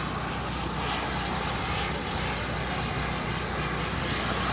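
Turbine engine of a radio-controlled model jet running with a steady whine and rush; it grows slightly louder near the end.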